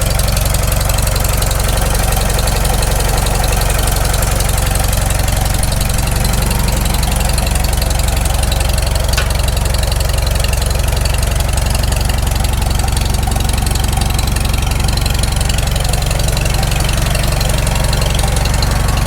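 Freshly rebuilt Farmall Super M four-cylinder tractor engine running steadily on its first run after the rebuild, with a single brief click about nine seconds in.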